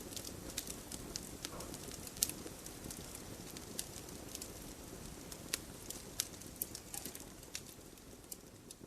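Wood campfire crackling, with irregular sharp pops and snaps over a steady low rush of burning, the whole sound slowly fading down near the end.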